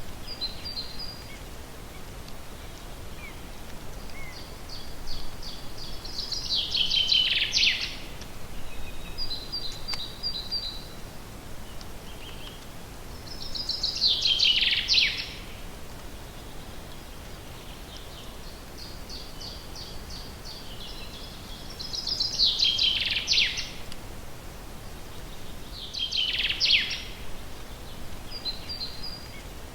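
Forest songbird singing the same song over and over, four times: each a quick run of high repeated notes ending in a louder, falling flourish. Short bursts of a few high chirps fall between the songs, over a steady faint background hiss.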